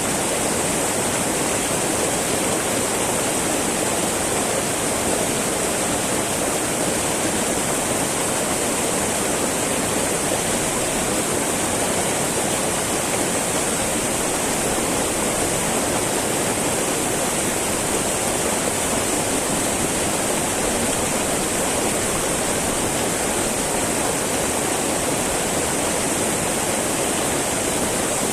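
Small mountain river babbling and flowing over rocks: a steady, unbroken rush of water.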